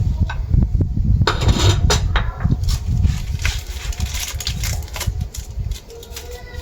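Clinks and knocks of objects being handled, a quick string of them in the first half, over a low rumble.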